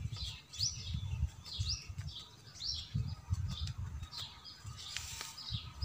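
A small bird chirping a short call over and over, about once a second, over a low rumble.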